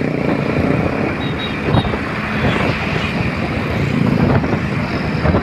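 Motor vehicle engine running with steady road noise.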